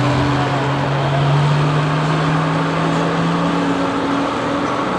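Diesel super stock pulling tractor's turbocharged engine running hard under load, its pitch climbing slowly and then dropping away near the end as it nearly bogs down: almost snuffed out.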